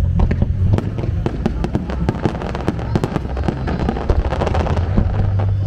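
Aerial fireworks display going off: a dense run of sharp cracks and pops in quick succession, over a low rumble.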